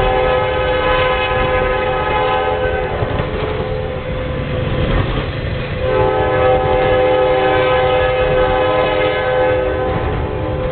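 Norfolk Southern freight locomotive's air horn sounding two long blasts, about two seconds apart, over the steady rumble of the passing train.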